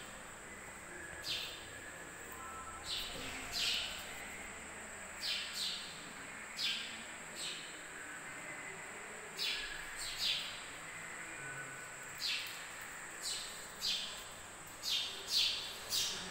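Small birds chirping: short, sharp, high chirps, about one a second at uneven spacing, some in quick pairs.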